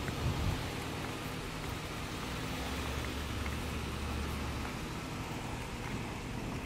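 A vehicle engine running with a steady low hum under an even hiss of outdoor noise, strongest in the low hum for a couple of seconds midway.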